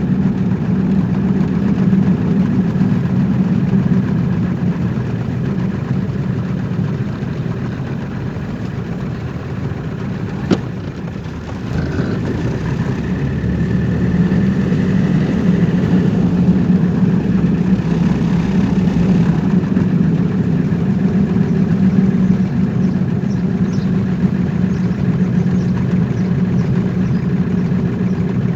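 Car driving: a steady engine and road hum that eases off a little about ten seconds in and builds again soon after, with a single sharp click around the dip.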